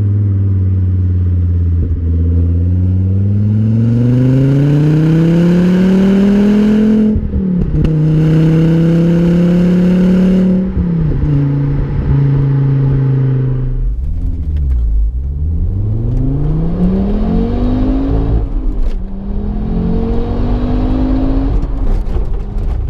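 Volvo V70 R's turbocharged 2.5-litre five-cylinder engine pulling through the gears under throttle, heard through its exhaust: the pitch climbs and drops sharply at each upshift, about seven and ten seconds in, falls low in the middle, then climbs again with another shift near the end.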